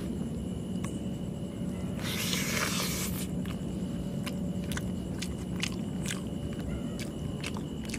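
A person chewing a mouthful of chicken curry and rice, with scattered soft mouth clicks, over a steady low hum. A short burst of hiss comes about two seconds in.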